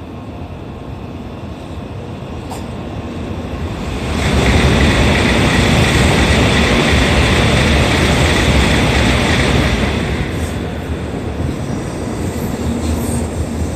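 N700 series Shinkansen accelerating out of the station past the platform. Its running noise builds for about four seconds, then turns loud with a steady high whine for about six seconds before easing to a lower rush.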